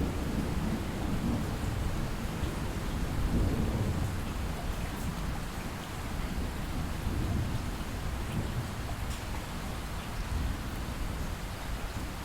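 Light rain falling steadily with a low rumble of distant thunder, strongest in the first few seconds and slowly easing off.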